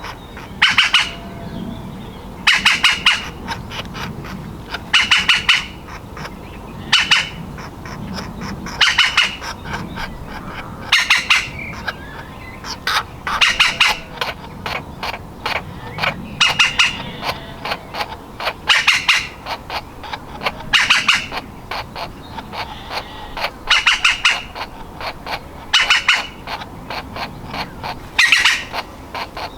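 Woodpecker nestling calling from its nest hole: short bursts of rapid, chattering notes, repeated about every two seconds.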